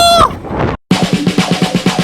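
A brief gliding voice-like sound, a sudden cut to silence for a moment, then a fast drum roll of about a dozen strokes a second in recorded music.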